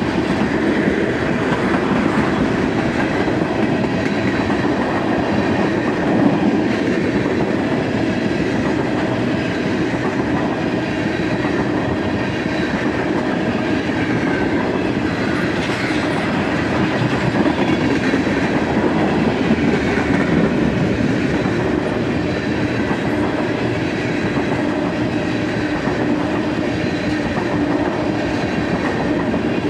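Freight train of tank cars rolling past close by, steel wheels running on the rails in a steady, continuous rumble with no horn.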